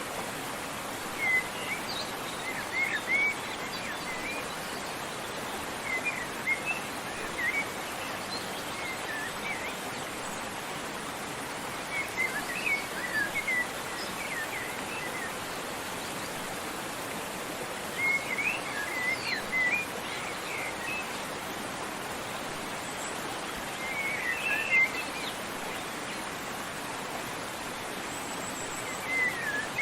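Steady rushing water, like a waterfall or stream, with a songbird singing short twittering phrases that come back about every six seconds.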